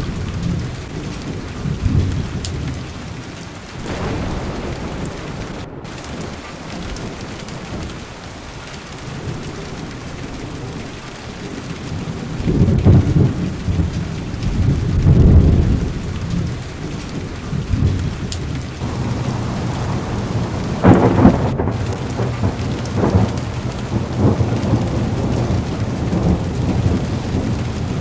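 Heavy rain beating steadily on a car's window and roof, with thunder rumbling through it: low rolls swelling twice around the middle, and a sharper clap about three quarters of the way in.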